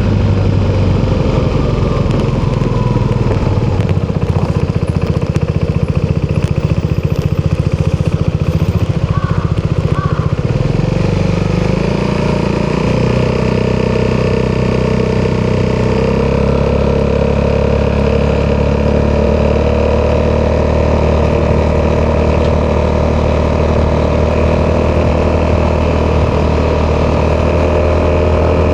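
Italjet Dragster 200's single-cylinder four-stroke DOHC engine running through an Akrapovic exhaust. The engine note changes about twelve seconds in, then holds steady and lower.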